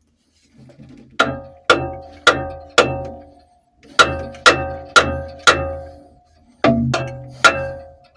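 Hammer blows on the steel of a narrowboat's engine mounting, each ringing out, struck in sets of four about two a second with short pauses between. They are driving the engine over to bring it into alignment with the propeller shaft.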